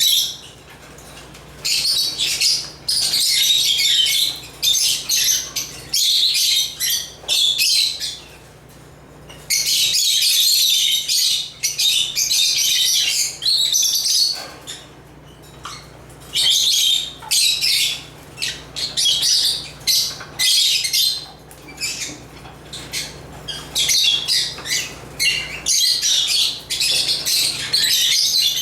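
African lovebirds (Agapornis) chattering with rapid, shrill chirps and squawks in bouts of one to several seconds, broken by short pauses.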